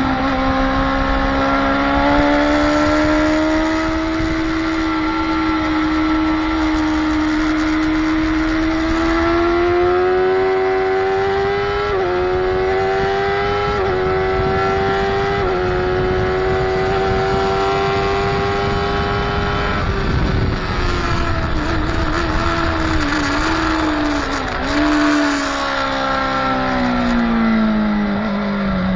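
Onboard sound of a track motorcycle's engine pulling hard under load, its note climbing steadily with three quick upshifts about halfway through. Near the end the engine note wavers and falls as the bike slows.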